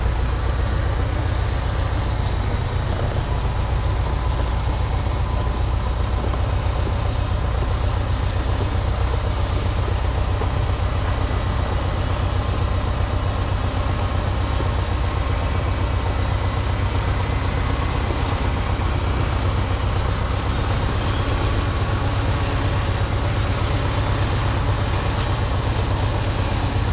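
UTB Universal 650 tractor's four-cylinder diesel engine running steadily under load as the tractor drives along a road carrying a six-row seed drill.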